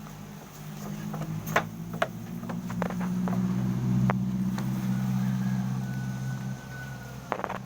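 An engine hums steadily, growing louder over the first few seconds and easing off near the end, with several sharp clicks or knocks over it.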